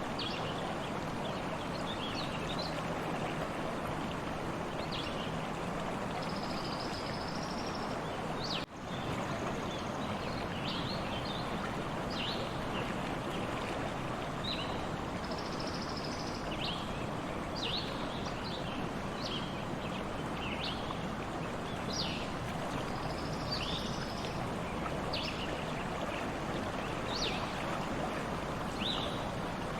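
Stream water running steadily, with small birds chirping in short high calls throughout. The sound drops out for a moment about nine seconds in.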